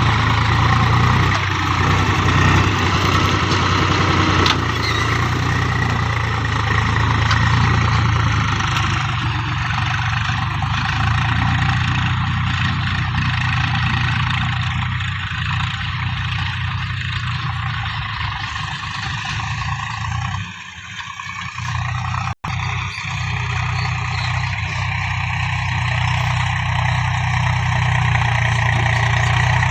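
Tractor engine running steadily under load. About two-thirds of the way through it drops away for a couple of seconds, cuts out for an instant, then comes back as before.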